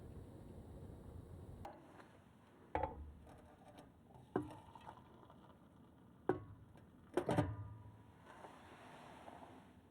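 A few sharp knocks and clinks of hard objects being handled, the loudest pair near the end, after a low rumble that cuts off in the first two seconds.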